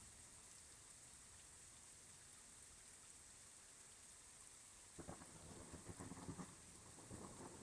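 Faint, steady rain hiss, then about five seconds in a rolling rumble of thunder breaks in, uneven and growing.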